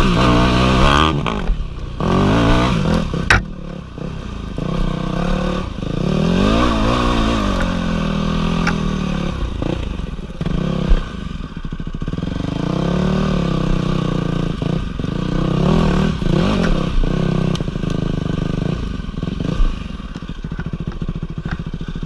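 Dirt bike engine revving up and down again and again as the throttle is worked, with the odd knock and clatter.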